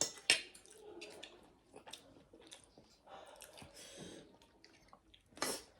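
Close-up chewing and mouth sounds of people eating, with short wet smacks and clicks. There is a louder, noisy burst about five and a half seconds in.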